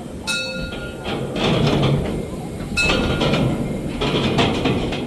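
Rail vehicle rolling slowly, with a steady rumble and three sharp metallic clanks that ring briefly, about two and a half seconds apart.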